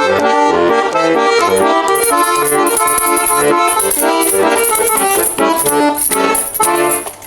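Bayan (Russian button accordion) playing the closing instrumental bars of a song: a melody in chords over alternating bass notes, which stops just before the end.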